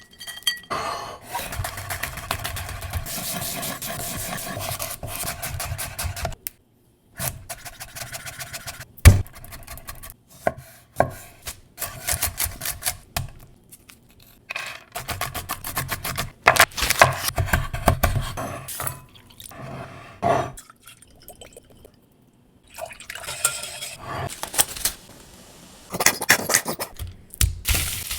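A run of short kitchen preparation clips: dishes, bowls and utensils clinking and knocking, with some liquid sounds, broken by brief silent cuts. One sharp knock about nine seconds in is the loudest moment.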